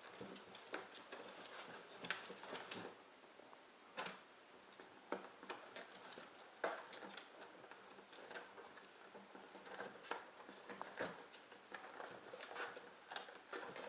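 A dachshund chewing and tearing at a cardboard shipping box, making irregular crackles, scrapes and rips.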